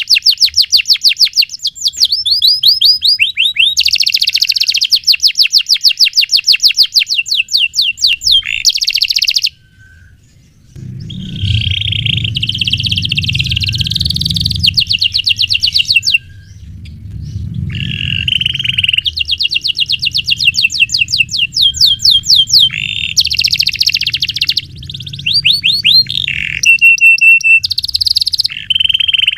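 Domestic canary singing long, tight rolls: runs of very fast repeated chirps in phrases of several seconds, with a short pause about ten seconds in. A low rumble sits under the song through the middle.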